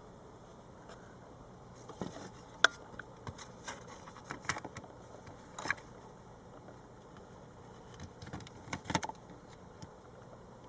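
A scattered series of light clicks and knocks over a faint steady hiss, in two clusters: one starting about two seconds in, with the sharpest click just after, and another around nine seconds in.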